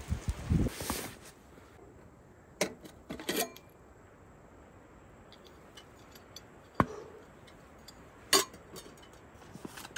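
A brief rustle in the first second, then a few separate sharp clicks and knocks of small hard objects, about five in all, spread out over several seconds.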